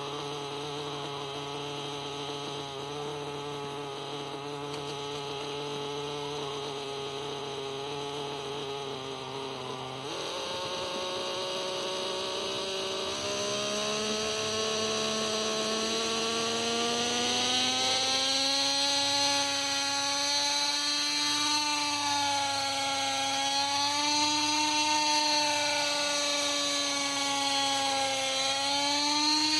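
Norvel .061 nitro glow engine of a Lite Machines 110 model helicopter running at a steady speed, then revving up about ten seconds in and climbing steadily in pitch. At the higher speed it wavers up and down with the throttle.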